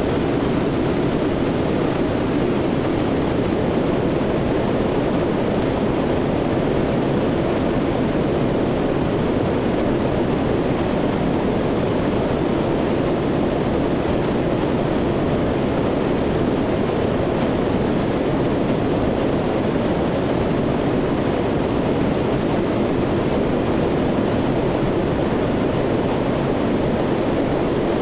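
Four-engine turboprop drone of a C-130 in flight, heard from aboard the aircraft along with rushing air: a steady, unchanging noise.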